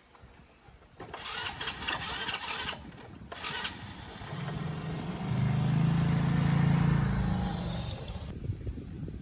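An engine starting and running for a few seconds, loudest in the middle and then dying away, after a couple of seconds of rattling noise.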